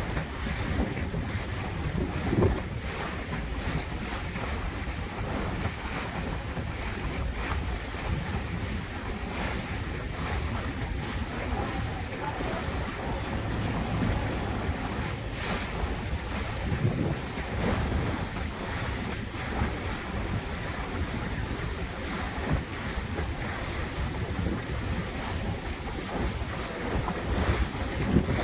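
Wind buffeting the microphone over the steady rush of water along a moving boat, with a few brief louder gusts.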